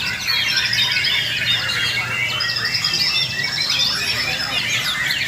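Many white-rumped shamas (murai batu) singing at once, a dense chorus of overlapping whistles and rapid trills with no gaps.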